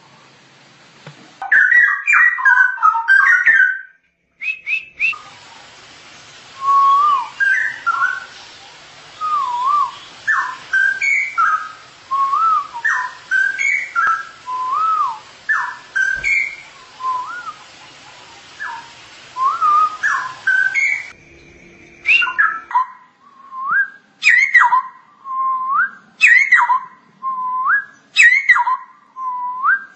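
Straw-headed bulbul (cucak rowo) singing loud, liquid, gliding whistled phrases, about one a second. A dense chattering burst comes near the start, and the recording changes abruptly a few times.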